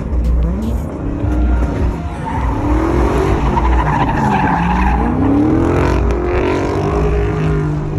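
Car engine revving repeatedly over a heavy low rumble, its pitch rising and falling several times.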